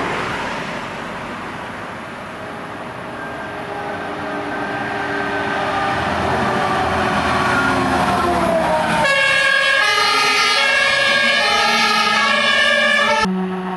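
German fire engines driving past with their two-tone sirens (Martinshorn) sounding over engine and road noise. The siren's pitch drops as one engine goes by. From about nine seconds in a louder siren alternates between its tones, then cuts off abruptly near the end.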